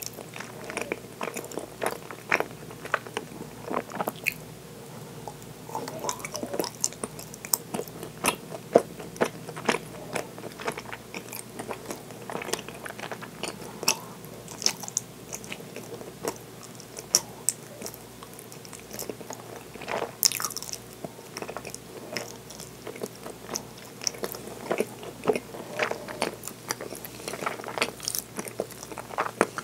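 Close-up chewing and mouth sounds of someone eating soft mitarashi dango, with many short clicks throughout.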